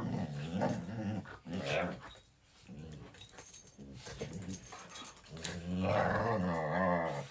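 A dog making drawn-out, cow-like vocalisations: several shorter ones, then a longer, wavering one near the end that is the loudest.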